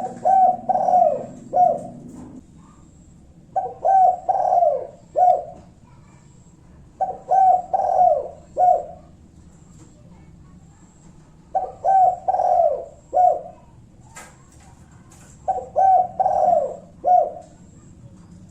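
Spotted dove (tekukur) singing its cooing song. It gives five phrases of three or four coos each, repeated about every four seconds.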